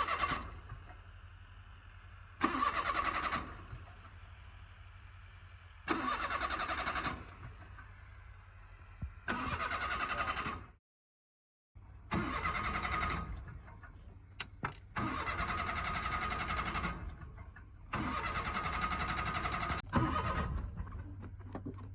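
Suzuki Mehran's small three-cylinder engine being cranked on the starter in repeated bursts of one to two seconds, about seven attempts. A low steady hum runs between them. The sound drops out completely for about a second halfway through.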